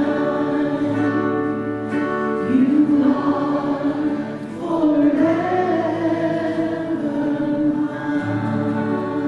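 A group of voices singing a church hymn together over sustained accompanying chords.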